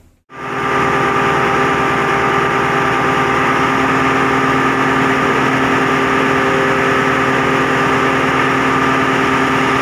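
Mitsubishi 8M20 marine diesel engine running steadily, a loud, even drone with a constant pitch, cutting in abruptly about a third of a second in.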